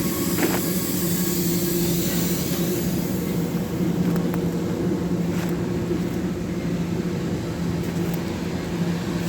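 Steady machine hum from a nearby factory in production, a drone with two held low tones that does not rise or fall, with a few faint clicks over it.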